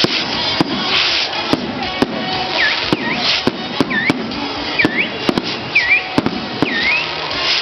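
Irregular sharp pops and cracks, a few a second, over festival music and crowd noise. From about two and a half seconds in, a short swooping whistle repeats five times, about once a second.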